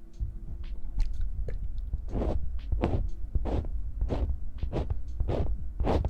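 Hands rubbing or brushing close to the microphone: faint scattered rustles, then an even run of swishing strokes, a little under two a second, over a low rumble.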